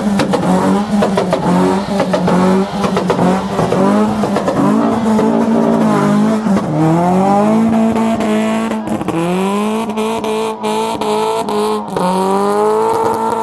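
A car engine held at high revs, its pitch rising and dipping again and again as the throttle is worked.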